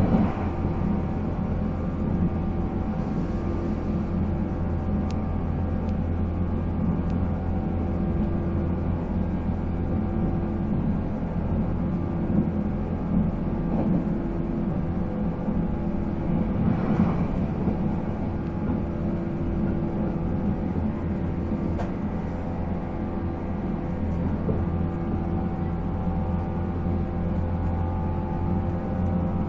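485-series electric train running on the main line, heard from inside the car: MT54 traction motors and gears humming at a steady pitch over the rumble of wheels on rail. A brief louder rush comes about 17 seconds in.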